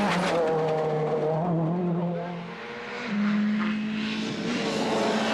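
A rally car's engine running hard at high revs, its note stepping between gears. The sound eases off briefly about two and a half seconds in, then comes back on at a higher note.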